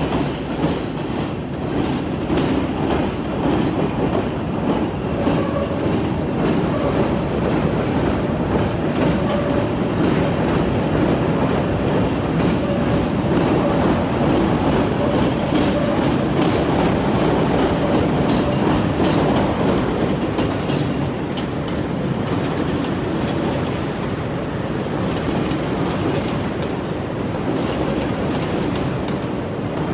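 CTA 'L' rapid-transit train running over the steel elevated structure of Tower 18 Interlocking, its wheels rolling across the junction's switches and crossings in a steady rail noise with a faint tone held through the middle; it eases somewhat after about 20 seconds.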